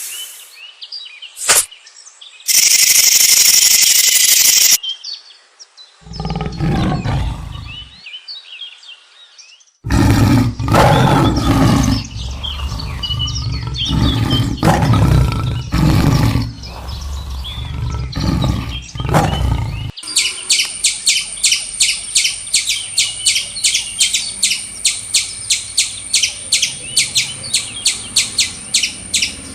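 A string of different animal calls: a few short sounds, then a stretch of low, heavy roaring calls, then a fast, even run of high chirps, about three a second, from about twenty seconds in.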